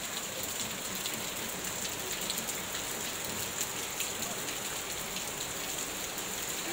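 Heavy rain falling steadily, an even hiss with the close patter of individual drops hitting surfaces.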